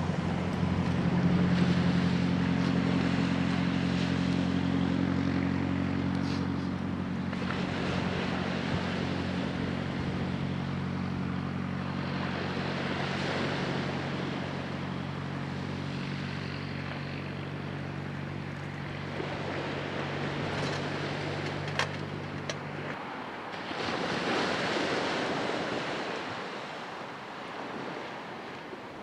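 Waves washing on the shore, with a steady low engine hum over them that holds one pitch and cuts off abruptly about three quarters of the way through. Afterwards only the surf is left, swelling once.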